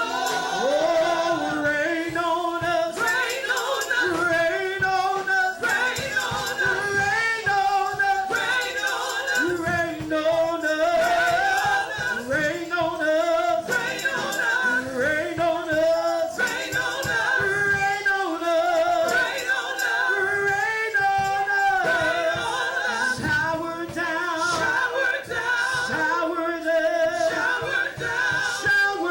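Gospel praise team singing a worship song, several voices together in harmony.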